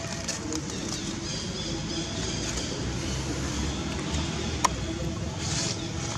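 Outdoor ambience: a steady low rumble with faint high bird calls, and a single sharp click about four and a half seconds in.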